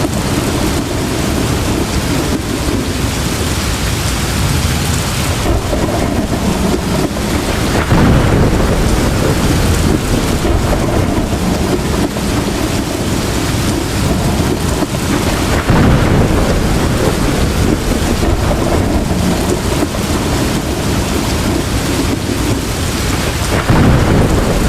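Heavy rain pouring steadily, with rumbles of thunder swelling up about a third of the way in, around two-thirds through, and again near the end.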